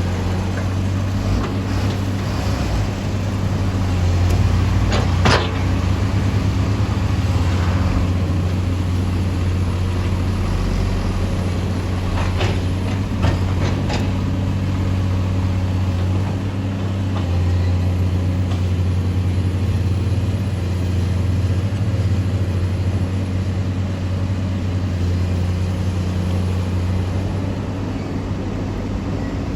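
Excavator's diesel engine running steadily with a low hum, and a few sharp knocks about five seconds in and again around twelve to fourteen seconds in.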